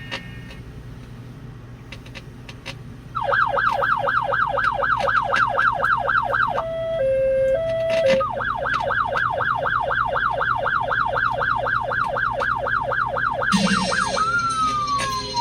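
Police car electronic siren in fast yelp, about five rising-and-falling sweeps a second. About halfway through it switches briefly to a two-tone hi-lo, then goes back to yelp, and near the end it changes to one slow falling wail.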